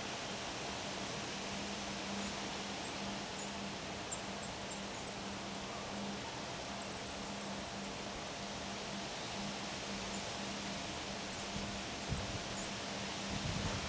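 Steady wind rushing and rustling leaves, with a few faint high chirps in the first half and low rumbles of wind buffeting near the end.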